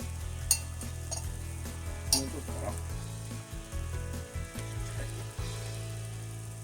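Chopped daikon leaves and daikon peel sizzling in a frying pan with sesame oil and mentsuyu, being stir-fried, with two sharp taps about half a second and two seconds in. A steady low hum runs underneath.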